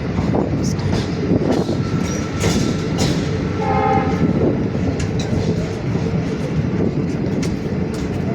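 A train running past, with a steady rumble and the clatter of wheels, and one short horn blast about three and a half seconds in.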